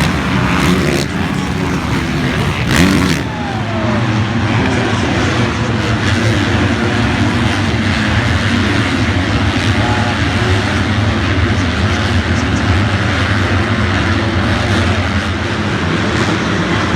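Motocross bikes racing, their engines revving and running loud and steady, with a brief sharp burst and a falling pitch about three seconds in.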